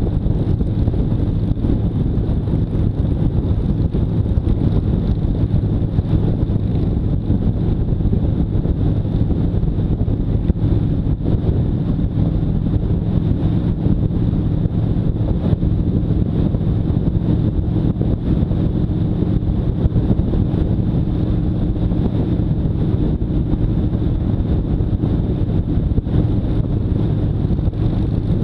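Motorcycle engine running at a steady cruise, heavily buffeted by wind noise on the microphone.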